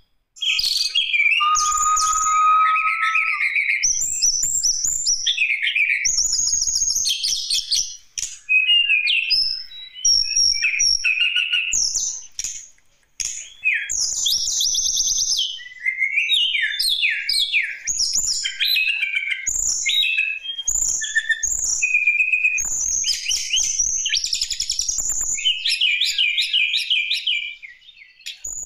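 Tledekan gunung singing a long, loud, varied song of rapid high whistles, trills and chattering phrases, with only brief pauses between bouts.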